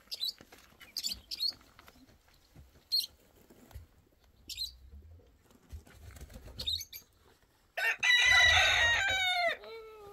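A rooster crowing once near the end, the call ending in a falling tail. Before it come several short, high chirps.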